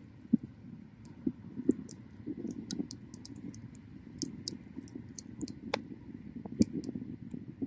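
Wood bonfire crackling, with irregular sharp pops and snaps over a low, steady rumble of flame.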